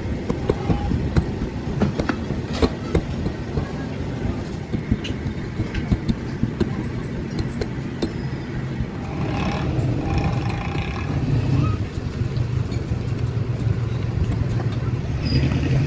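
An engine running steadily with a low rumble that grows a little louder about nine seconds in, with scattered clicks and knocks over it.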